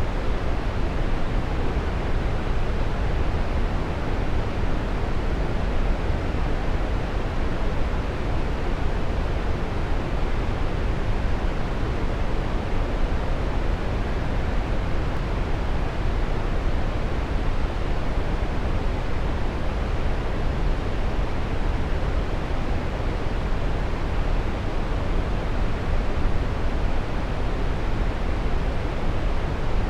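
Waterfall: a steady, even rush of falling water, heaviest in the low end, with no breaks or changes.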